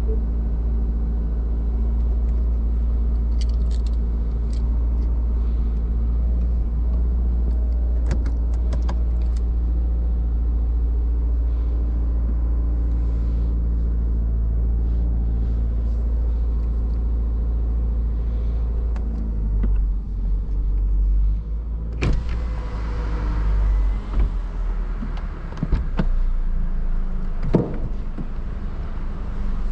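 2023 Subaru BRZ's flat-four engine idling steadily, heard from inside the cabin, with scattered small clicks. About 22 s in a sharp click comes as the driver's door opens; the idle goes on, joined by wider noise and a few more clicks and handling sounds near the end.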